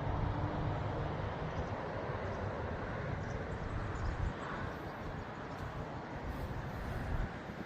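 Steady outdoor background rumble, strongest in the low end, with a faint low hum that fades out about a second in.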